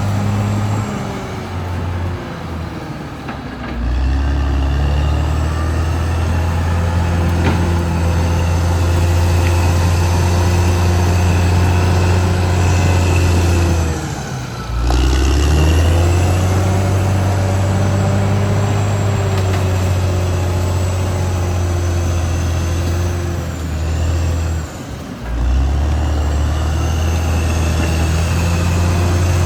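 Caterpillar D6R XL crawler dozer's diesel engine running under load, its low steady drone dipping and picking up again three times. Thin high-pitched squeals sound over the top.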